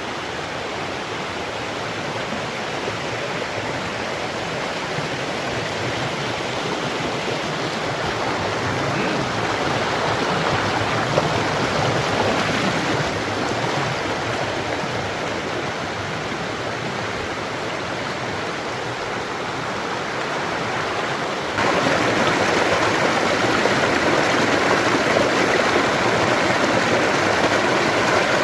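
River water rushing steadily over rocks, as a continuous hiss. About three-quarters of the way through it jumps suddenly louder and brighter.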